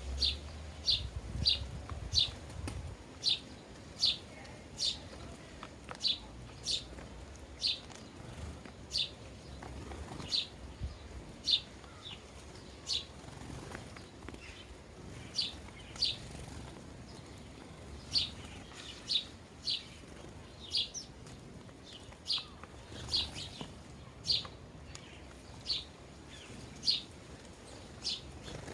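A sparrow chirping: short, high single chirps repeated about once a second, with a few short pauses.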